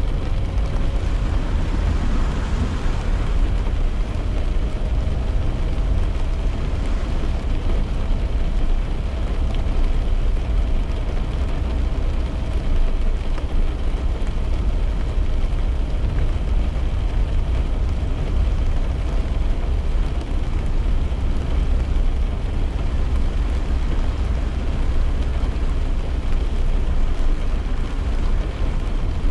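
Inside a car driving in rain: a steady deep rumble of tyres on the road and the engine, with rain hissing on the car. A faint engine hum rises slowly in pitch over the first twenty seconds or so.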